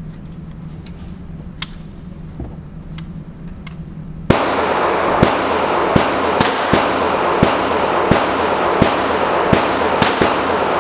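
Gunfire at an indoor range. A few faint distant shots are followed, about four seconds in, by a loud string of shots roughly one to two a second, with the hall's echo filling the gaps between them.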